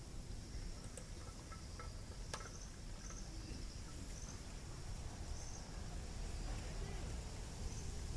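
Insect chirping: a steady high trill with louder chirps every couple of seconds, over a low hum, with a few light clicks.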